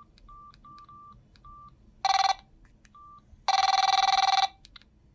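Samsung SGH-X506 mobile phone giving short keypad beeps as its menus are stepped through, then sounding a loud buzzy electronic tone twice through its speaker: a brief burst about two seconds in and a longer one of about a second shortly after. The tone is played while the phone's alarm sound is being checked.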